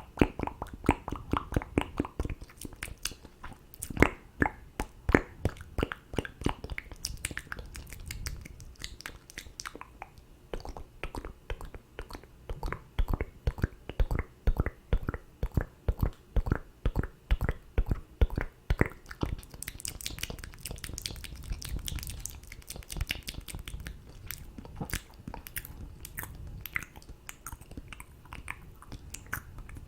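ASMR mouth sounds close to a microphone: a rapid, irregular run of wet clicks and smacks of lips and tongue that goes on throughout.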